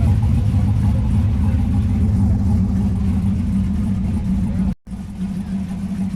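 A car engine running steadily with a deep, low rumble. The sound drops out for an instant just under five seconds in and comes back a little quieter.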